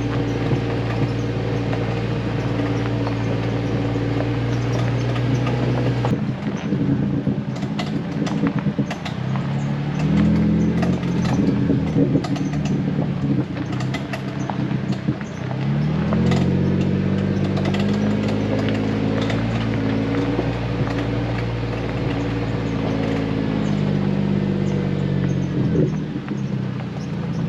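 Jeep Wrangler engine running as it drives slowly over a rough gravel trail, its pitch rising and falling several times with the throttle. Scattered knocks and clatter from the rough ground start about a quarter of the way in.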